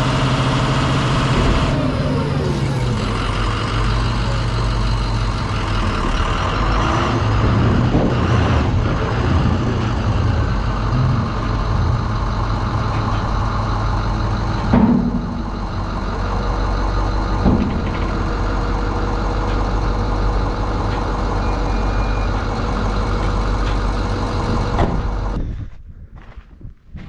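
International 4200 dump truck's VT365 V8 turbo-diesel running steadily, its engine note dropping about two seconds in. There are a couple of knocks in the middle, and the running falls away shortly before the end.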